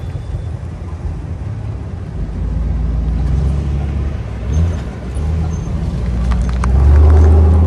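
Classic American cars driving past with a low engine rumble, which builds to its loudest as one passes close near the end.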